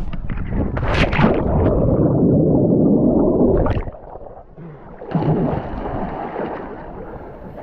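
A person jumping into the sea: a splash about a second in, then dense, muffled underwater bubbling and churning that stops suddenly about four seconds in, followed by softer water sloshing.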